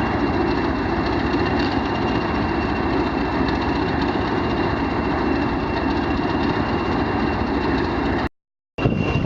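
Diesel locomotive engine running steadily, with a steady high-pitched whine over the rumble; the sound breaks off into a brief silence near the end.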